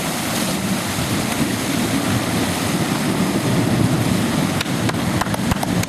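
Toyota Land Cruiser 4x4 driving through a fast-flowing river: rushing, splashing water with the vehicle's engine under it, and a few sharp knocks near the end.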